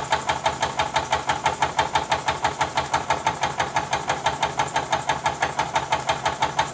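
Jean Comby model steam engine running steadily, its exhaust chuffing in an even rhythm of about six beats a second.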